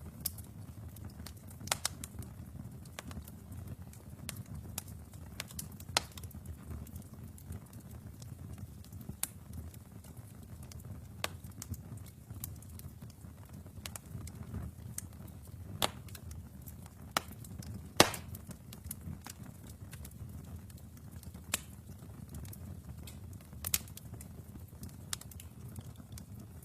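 Wood fire burning in a fireplace: a steady low rumble of flames with irregular sharp crackles and pops, the loudest pop about 18 seconds in.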